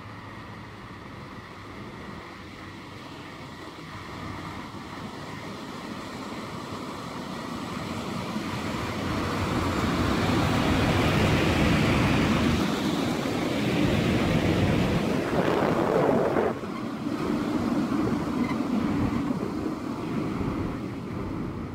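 EP07 electric locomotive and its passenger coaches running into the station past the platform, wheels rumbling on the rails. The sound builds over the first half, is loudest as the train passes close, drops suddenly about two-thirds of the way through, then eases as the train slows to a stop.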